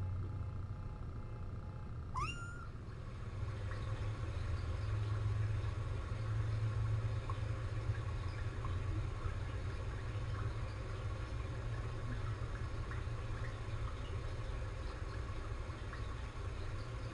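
A cat gives one short meow that rises in pitch about two seconds in, followed by faint scattered high squeaks, over a steady low hum.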